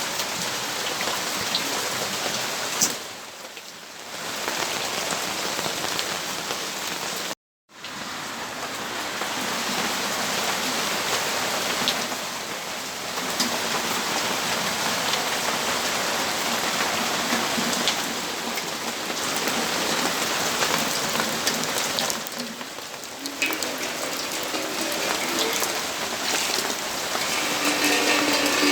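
Rain falling, heard from a balcony: a steady, dense hiss with scattered sharp taps of drops. The sound cuts out completely for a moment about seven and a half seconds in, and softens briefly a few times.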